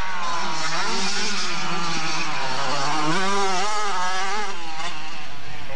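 Motocross bike engines revving hard, their pitch rising and falling again and again as the throttle opens and closes.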